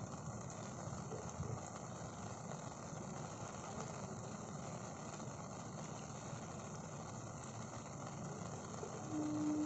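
Steady hiss of rain falling on a wet road and surrounding ground. A low steady hum comes in near the end.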